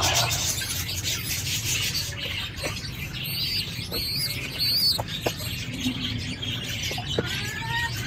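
Small birds chirping, with a run of quick, high, wavering chirps about three to five seconds in and a few more near the end, over a steady low background rumble and a few soft clicks.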